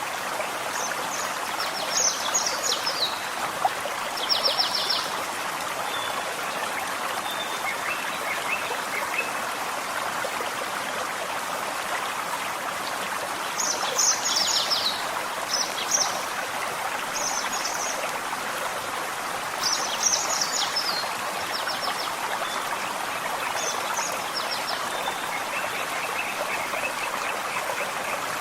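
A small forest stream babbling and trickling over stones, steady throughout, with birds singing over it in short bursts of quick, high chirps and trills, busiest about 2–5 s in and again around the middle.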